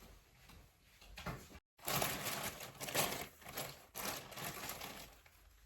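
Packing tape being pulled off the roll in several long, rasping strips to seal a plastic courier bag, after a brief moment of dead silence about a second and a half in.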